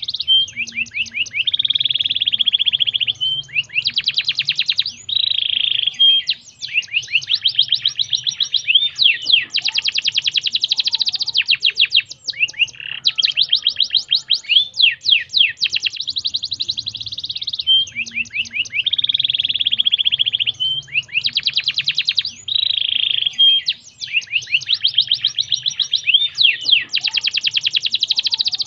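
Domestic canary singing a long, fast song of rapid trills and rolls, each phrase a quick run of repeated high notes that changes speed and pitch every second or two.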